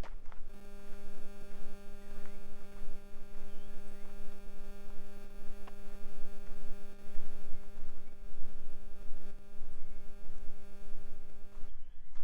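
A steady hum on one unchanging pitch, rich in overtones, starts abruptly about half a second in and cuts off suddenly near the end, over a continuous low rumble.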